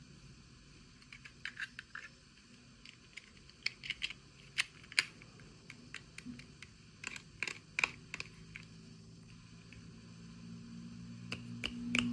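Light, irregular clicks and taps of small plastic toy pieces and packaging being handled, some in quick clusters. A low hum swells near the end.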